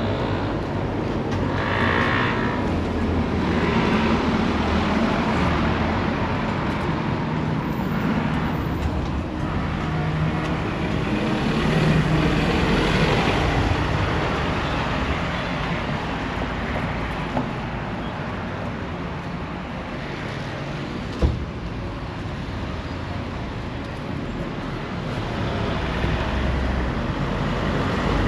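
Motor vehicle noise, a steady running sound with a low hum that swells about twelve seconds in and then eases off, with one sharp click about twenty-one seconds in.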